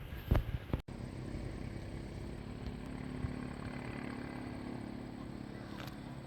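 A few sharp knocks, then an abrupt cut just under a second in, followed by the steady hum of a motor vehicle's engine running.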